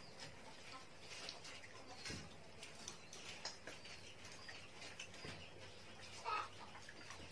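Faint high bird chirps with scattered light clicks, and one short louder call a little after six seconds in.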